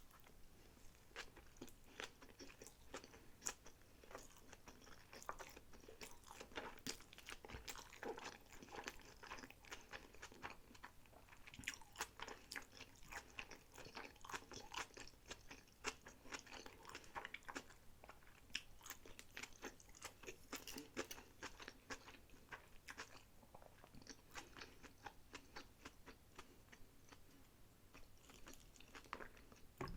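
Close-miked chewing of sushi rolls: a steady run of irregular wet mouth clicks and soft crunches.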